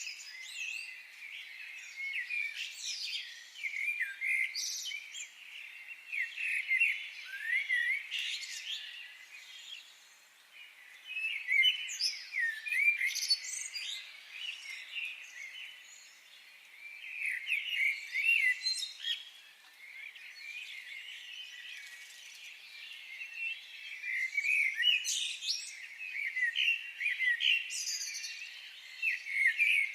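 Several birds chirping and singing together in quick, overlapping calls, in busy spells with brief lulls.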